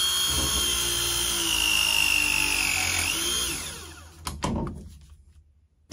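Milwaukee ProPress tool's motor running through a press cycle, crimping a 1/2-inch copper fitting. Its whine slowly drops in pitch as it works, then rises and winds down a little past three seconds in, followed by a sharp click.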